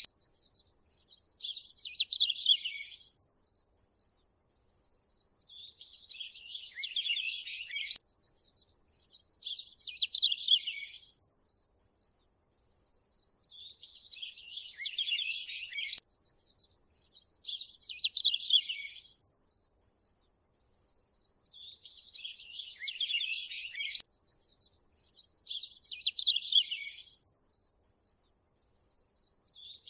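Nature ambience: birds chirping in short bursts about every four seconds over a steady high hiss, the same pattern repeating every eight seconds with a faint click at each repeat.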